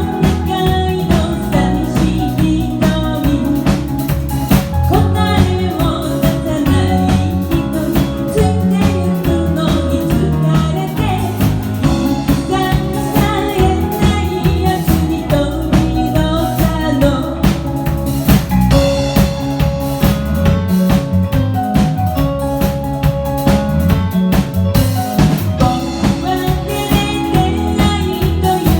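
A band of keyboard, drum kit and bass guitar playing a pop song, with a woman singing the lead vocal over a steady drum beat.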